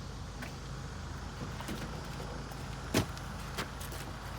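A vehicle engine idling steadily, with a sharp knock about three seconds in and a lighter one shortly after.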